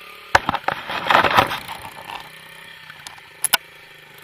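Knocks and rattles come in a quick cluster over the first second and a half, with two sharp clicks near the end. Under them a small motorcycle engine runs faintly and steadily.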